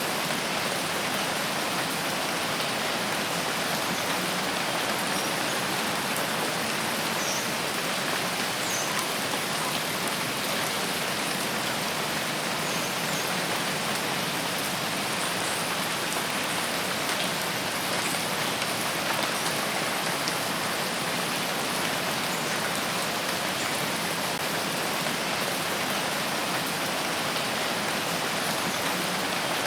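Steady, even rain falling on foliage and ground, a constant hiss without breaks.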